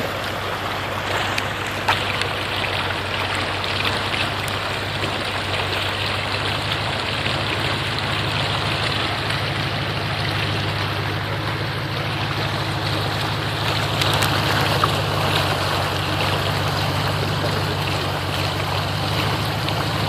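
A vehicle's engine hums low and steady while floodwater rushes and sloshes around the wheels as it moves through deep water.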